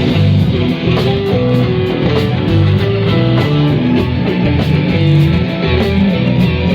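Live rock band playing an instrumental passage between sung lines: guitar to the fore over bass notes, with a steady beat of cymbal strokes.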